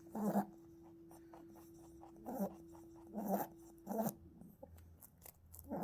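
Pet rabbit making a string of short, soft honking grunts, about five spaced a second or so apart, over a faint steady hum.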